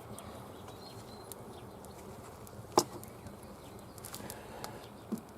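Campfire crackling with scattered small pops and one sharp, loud crack about three seconds in.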